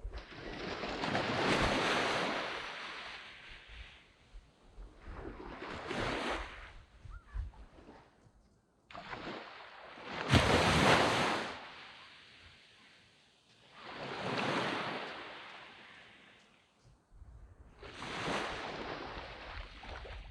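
Waves breaking on a sand beach. Five waves come in about four seconds apart, each a rush of surf that fades away slowly, and the one about halfway through is the loudest.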